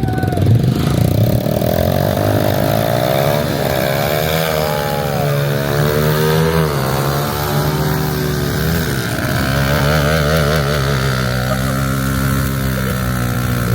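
Big diesel truck engine running loudly, its pitch swinging up and down several times as it is revved.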